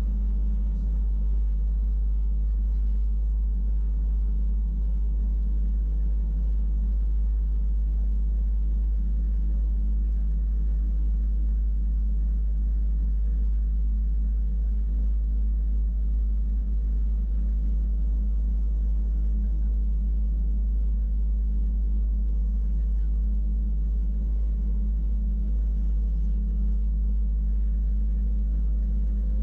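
Wengernalpbahn electric rack-railway train running steadily, heard from inside the carriage as a constant low rumble.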